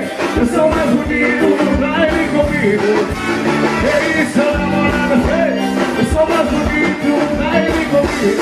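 Live forró band music, loud, with a steady drum beat under bending melodic lines.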